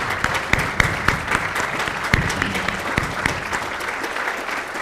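An audience applauding with many hands clapping, a little less strongly toward the end.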